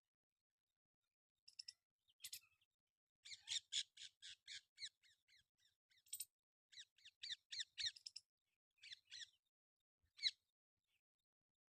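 Parrot giving short, harsh squawks in quick runs of several calls a second, broken by short pauses.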